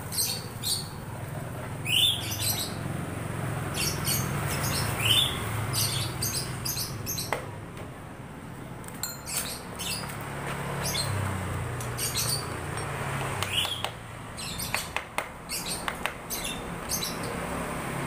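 Small birds chirping over and over in short, high calls, some rising in pitch. A few sharp clicks come in near the middle and again late on, over a low steady hum.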